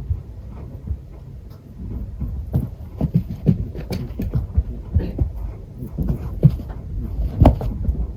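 Netherland Dwarf rabbit making short, low, repeated 'bu-bu' grunts, several a second, with the loudest near the end. This honking is a rabbit's sign of excitement and joy at play.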